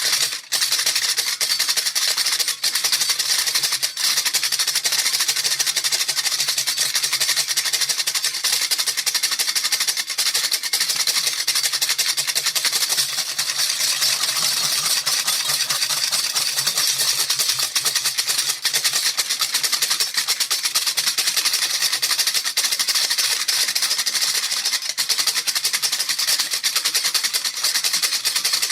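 A baby rattle shaken quickly and without pause, giving a dense, steady rattling with one brief break about half a second in.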